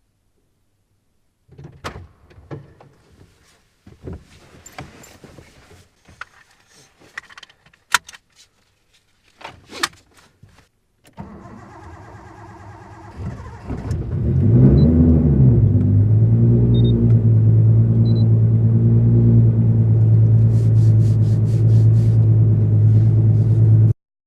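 Scattered clicks and knocks for several seconds, then a low hum. About fourteen seconds in, a Nissan Skyline R33 GTST's turbocharged RB25DET straight-six cranks and catches. Its revs rise and fall briefly, then it settles into a steady idle that cuts off suddenly near the end.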